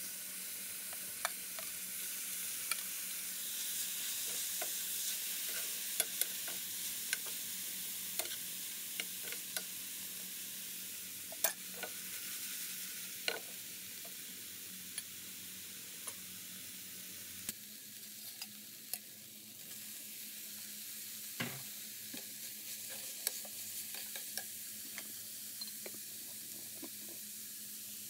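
Chopped onion, ginger, garlic and green chili sizzling steadily in hot oil in a frying pan, with frequent sharp clicks and scrapes of a metal spoon stirring against the pan.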